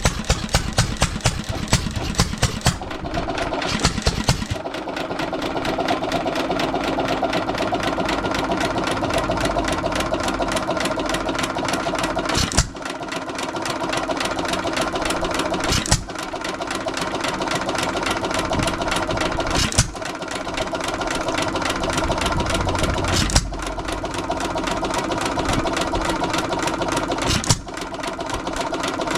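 Antique single-cylinder stationary gas engine running: quick, regular firing strokes for the first few seconds, then steady running with a sharp beat about every three and a half to four seconds. It runs a little fast, with its speed control set all the way to fast.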